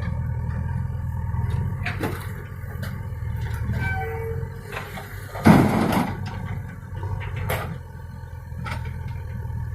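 Diesel engine of heavy farm or earthmoving machinery running steadily, with scattered clanks and knocks and one loud, short rush of noise about five and a half seconds in.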